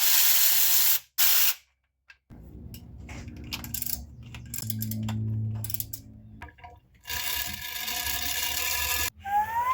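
Mechanic's tools at work on the engine's water pump: short hissing bursts, a stretch of ratcheting and rattling, then another buzzing, hissing run of a tool. Rising squeals follow near the end.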